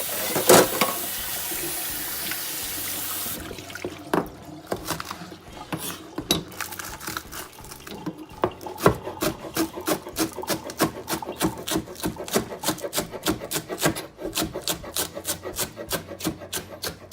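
Kitchen tap running for about three seconds, then a knife chopping shallots on a cutting board in quick, even strokes, about three to four a second.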